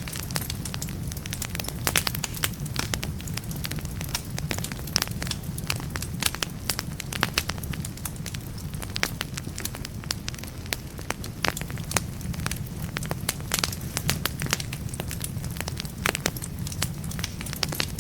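Wood logs burning in a fireplace, crackling with frequent irregular sharp pops and snaps over a steady low rumble of the flames.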